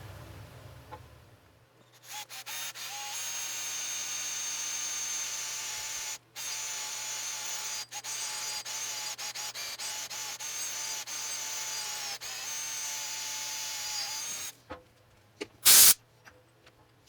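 Electric drill running steadily, boring a 5/32-inch hole straight through for a roll pin, with two brief stops partway through; it stops near the end, followed by one sharp knock.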